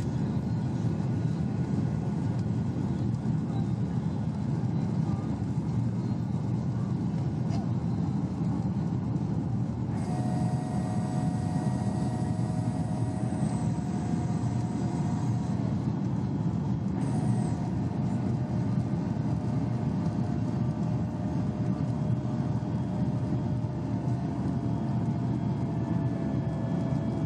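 Steady roar of a Boeing 737-800 cabin in flight, airflow and CFM56-7B engine noise, with faint steady whine tones that come in about ten seconds in, drop out briefly and return.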